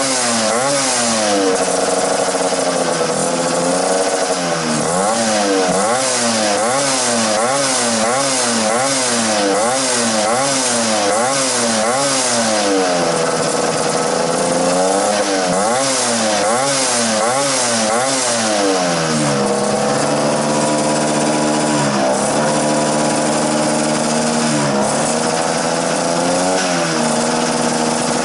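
1979 Vespa small-frame scooter's two-stroke single-cylinder engine revving through a new aftermarket exhaust: quick rev-ups and drops about once a second, then longer, slower revs, settling about two-thirds of the way in to a lower steady run with a few short throttle blips.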